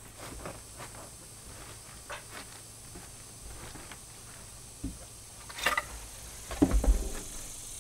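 Scattered soft rustles and light clicks of fiberglass insulation batts being handled and cut, with two louder bursts of rustling near the end.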